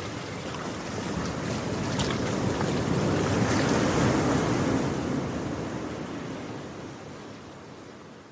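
Ocean surf washing ashore with wind on the microphone, a steady rushing that swells over the first few seconds and then slowly dies away.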